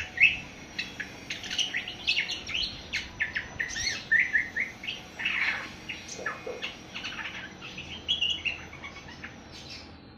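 Young awar-awar bird, seven months old, twittering in a long run of short, quick chirps: the early warbling ('ngriwik') of a bird starting to come into song. A faint steady high whine runs beneath it and stops near the end.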